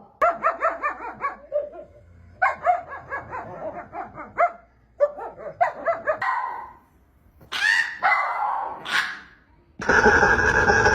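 A dog barking in quick runs of short barks, about five or six a second, with brief pauses between runs and a couple of higher, longer calls later on. Near the end a steady, louder noise takes over.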